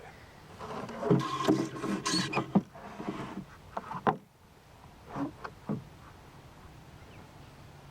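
A power drill runs for about three seconds with knocks and clatter of wood, followed by a couple of short knocks.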